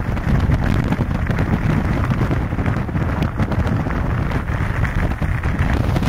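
Strong wind buffeting the microphone: a loud, gusty rumble that keeps rising and falling.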